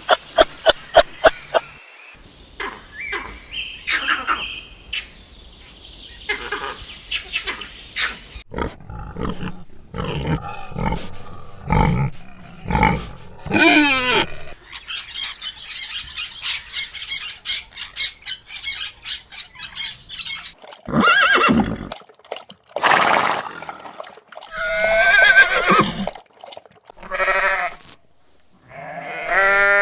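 A run of different farm animal calls one after another: short pitched cries, a stretch of fast even pulsing in the middle, and a wavering bleat-like call near the end.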